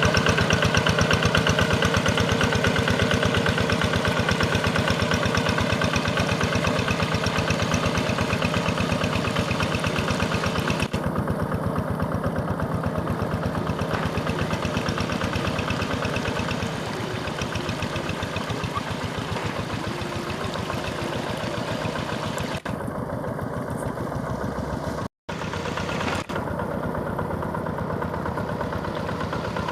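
Quick G1000 hand tractor's single-cylinder diesel engine running steadily with an even beat, its level easing a little about two-thirds of the way through. The sound drops out for a moment about 25 seconds in.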